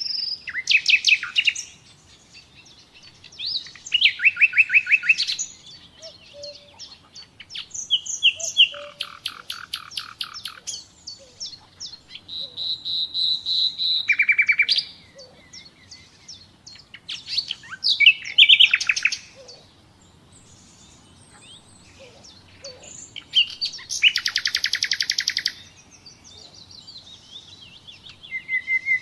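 Common nightingale singing in separate phrases a few seconds apart, about seven in all. Most phrases are fast runs of repeated notes; one is a long steady whistle.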